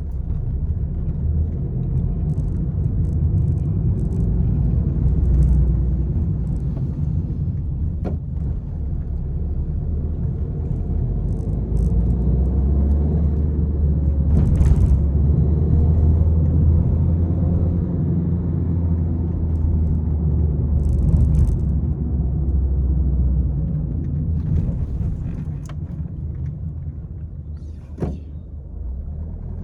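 Peugeot 301 being driven hard: steady deep engine and road rumble with a few short, sharp knocks. The rumble eases a little near the end, then builds again.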